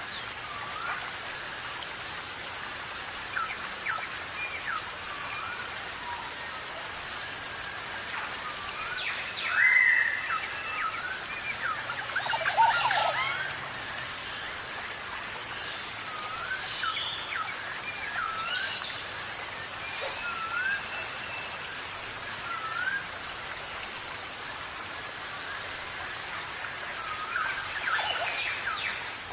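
Birds chirping and whistling in many short calls over a steady hiss, with louder calls about ten and thirteen seconds in.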